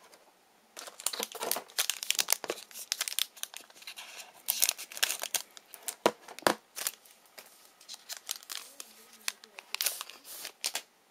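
Plastic trading-card pack wrapper being torn open and crinkled by hand: a dense run of sharp crackles starting about a second in and stopping just before the end.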